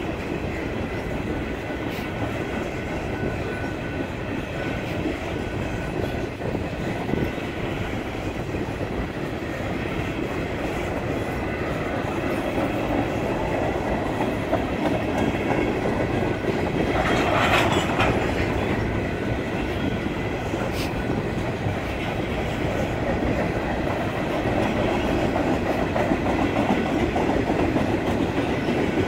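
Union Pacific manifest freight train's cars rolling past: covered hoppers and tank cars, steady wheel-on-rail running noise, briefly harsher and louder a little past halfway.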